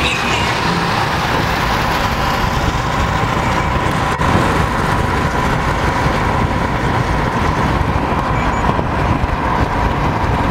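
Steady road and engine noise heard from inside a moving vehicle, with a faint steady whine running through it.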